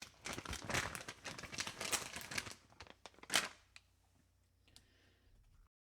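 Crinkling and rustling: a dense run of small crackles for about two and a half seconds, one louder rustle a little over three seconds in, then a few faint ticks.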